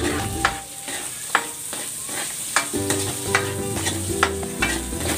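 Wooden spatula knocking and scraping against a metal wok while onion sizzles in hot oil, sautéed with garlic and ginger. The knocks are sharp and irregular over a steady hiss.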